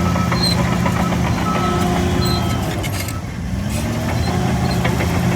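Shantui DH17C3 bulldozer's diesel engine running under load, with scattered clanks. A little past halfway the engine note dips, then climbs back up in pitch.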